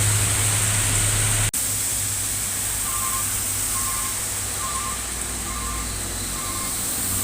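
Heavy truck engine running with a steady low hum, cut off abruptly about a second and a half in and followed by a quieter engine hum. From about three seconds in, a high electronic double beep repeats roughly every second.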